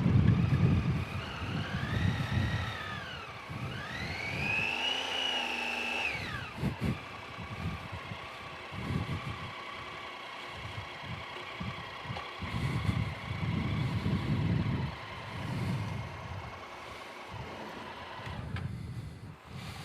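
Motorcycle engine pulling away: two revs that rise and fall as it goes up through the gears, then a steady drone at cruising speed. Wind buffets the microphone throughout.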